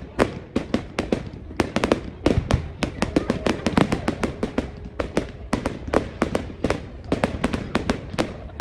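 Fireworks going off in a rapid, irregular barrage of sharp bangs and crackles, several a second, with faint crowd voices underneath.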